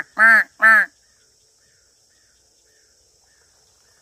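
Three loud bird calls in quick succession, evenly spaced within the first second. After them, a steady faint high insect hum and faint repeated chirps.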